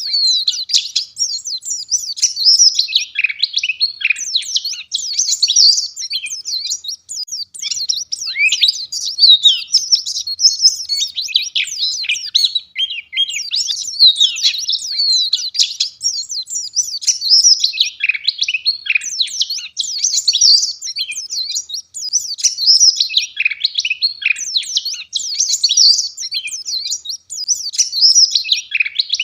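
Wild-caught white-eye (pleci) singing without pause: a fast, dense run of high, thin chirps and twittering warbles.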